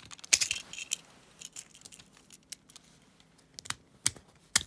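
Hard plastic toy parts clicking and knocking as they are handled: a quick cluster of clicks in the first second, then three sharp clicks near the end.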